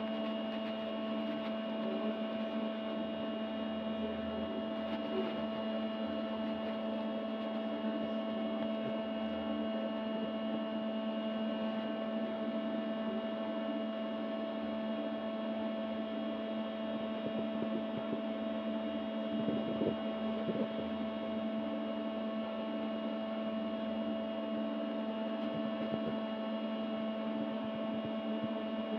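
A steady, unchanging electrical-type hum made of several held tones, with a few faint ticks about twenty seconds in.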